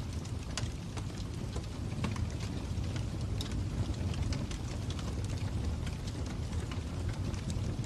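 Fire crackling: irregular sharp little pops and snaps over a steady low rumble.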